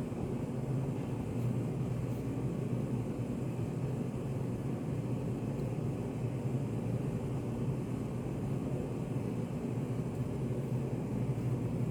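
Steady low rumbling white noise, study-café ambience, even in level throughout with no distinct events.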